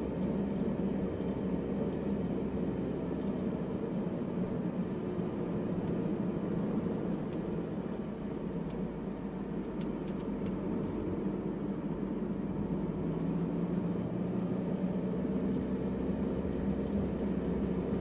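Steady rumble of a car driving, with engine and road noise heard from inside the vehicle.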